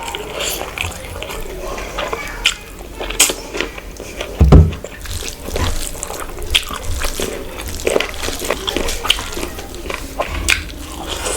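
Close-miked eating of curry and rice: wet chewing and mouth smacking with scattered clicks. A loud low thump comes about four and a half seconds in.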